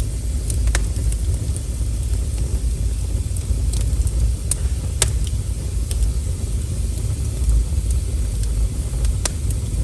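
Wood fire burning with a steady low rumble and scattered sharp crackles and pops, about a dozen over the stretch, the loudest about five seconds in.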